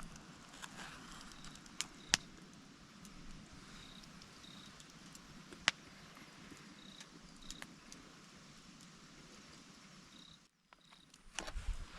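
A cricket chirping in short high paired notes every second or two over a steady faint hiss, with a few sharp pops.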